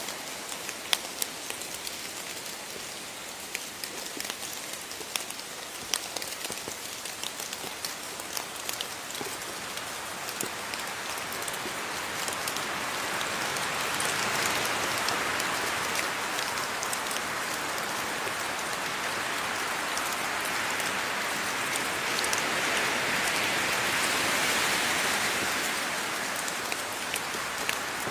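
Steady rain falling, with many individual drops ticking sharply on a surface. The rain grows heavier about halfway through, then eases a little near the end.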